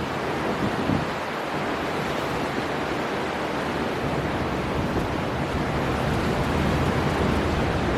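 Storm wind blowing hard over the sea with surf breaking, a steady rush of noise with gusts that swell in the low end.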